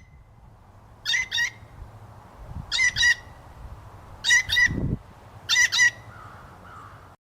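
Blue jay giving its harsh "jay" calls, in four quick pairs about a second and a half apart.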